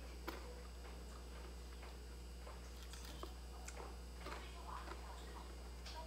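Crispy fried cake being bitten and chewed, a scattered run of soft crunches and clicks that come more often in the second half.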